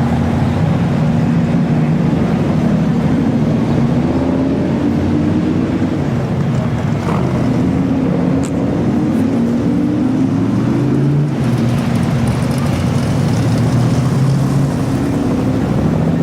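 Car engines running as a line of cars drives slowly past, with a steady, continuous engine noise.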